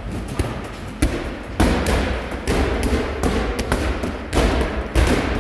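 Medicine balls thudding against a wall and being caught during wall-ball shots, several athletes at once, with irregular loud thuds and smaller taps that ring on in a large room.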